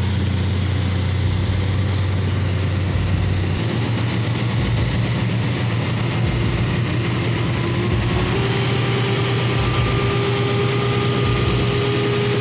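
Diesel engines of heavy-haul trucks running steadily under load, a continuous deep drone whose pitch steps slightly about three and a half seconds in and edges up again midway.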